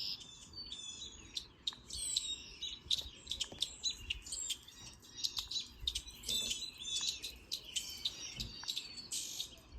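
Songbirds chirping, a dense run of short high calls and trills, played back from a bird video on a screen.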